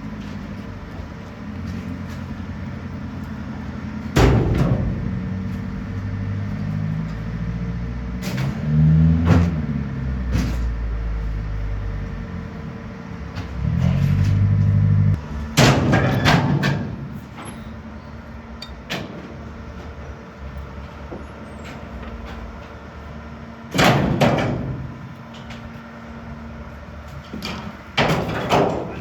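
Roll-off dumpster truck running, with a low engine hum that swells for a few seconds at a time. Several loud metal clanks and bangs come over it, the loudest near the start, in the middle and near the end.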